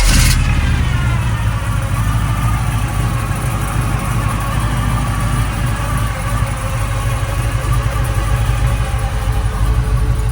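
1978 Chevrolet Malibu Classic's engine idling steadily.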